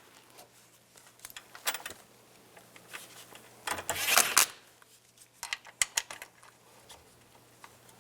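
Socket ratchet clicking in short runs while a tow-mirror mounting nut is tightened onto its stud, with scattered metal clicks and a longer run of clicking about four seconds in.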